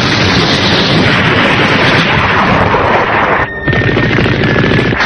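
Battle sound effects: a dense, continuous barrage of explosions and gunfire, breaking off briefly about three and a half seconds in before resuming.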